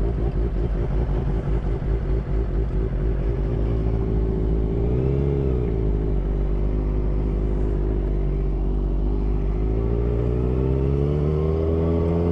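A vehicle engine running while under way. Its pitch rises and falls briefly about five seconds in, then climbs steadily near the end as it accelerates.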